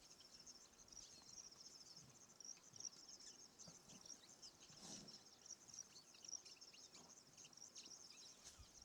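Faint, steady, high-pitched chirping of insects in the background, with one brief soft noise about five seconds in.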